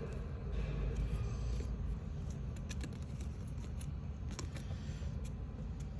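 Light clicks and rustling from small model pieces being handled and fitted, a few separate clicks over a steady low rumble.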